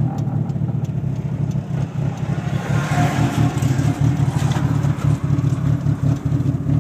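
Eagle Talon TSI's turbocharged four-cylinder engine running while driving, at a fairly steady engine speed. A rush of higher-pitched noise swells and fades about halfway through.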